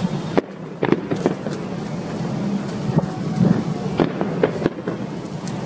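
Aerial fireworks going off: irregular sharp bangs and crackles, one after another, over a constant background noise.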